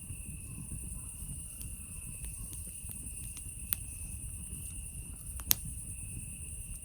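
Campfire burning with a low rumble and scattered crackles, snapping with two sharp loud pops about three and a half and five and a half seconds in, over a steady high-pitched chorus of night insects.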